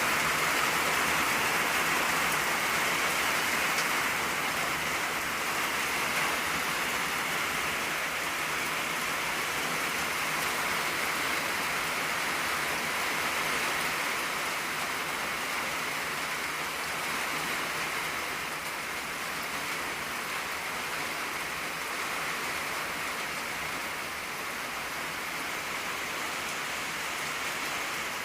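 Steady rain pattering on an old tin roof, a dense even hiss of drops, easing slightly in loudness over the stretch.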